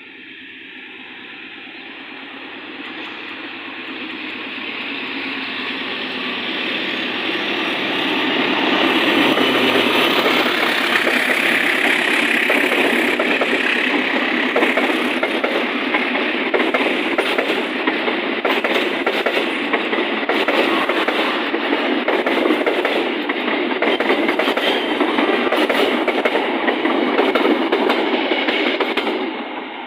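A train approaching and passing close by: it grows steadily louder over the first eight seconds, then holds as a loud rumble with wheels clattering on the rails, and cuts off abruptly near the end.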